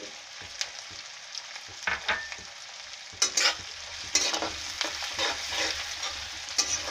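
Chopped onions and red chillies frying in oil in a steel kadhai, a steady sizzle. From about three seconds in, a spatula scrapes and stirs against the metal pan in repeated strokes.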